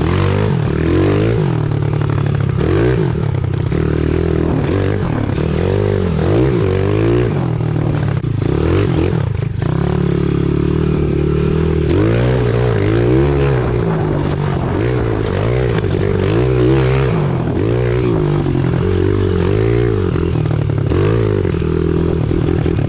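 Pit bike engine revving up and down continuously while being ridden, with scraping and clattering from the bike over rough ground.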